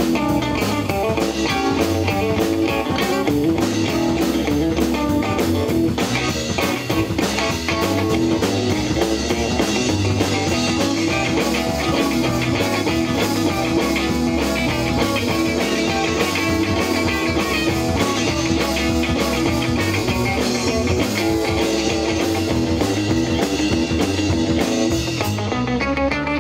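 A rock band playing live: electric guitar over a drum kit keeping a steady beat.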